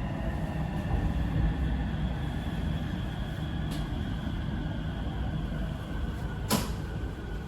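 Electric metro train slowing into a station, heard from inside the car: a steady rumble with the motor whine slowly falling in pitch, and a single sharp click near the end.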